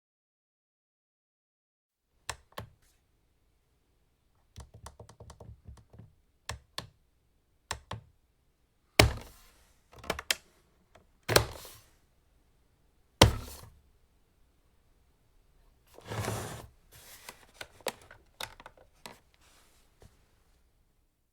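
An alarm clock being set by hand: a string of small clicks and knocks, including a quick run of rapid clicks, three loud sharp clacks in the middle, and a short rattling stretch later.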